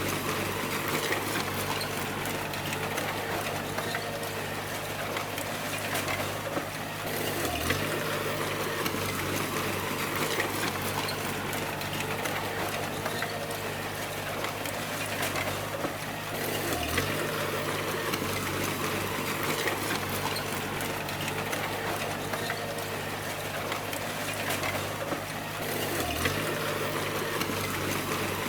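Bulldozer diesel engine running steadily under work, with a constant clatter of small clicks from the machine. Its pitch drops briefly three times, about nine seconds apart, then comes back up.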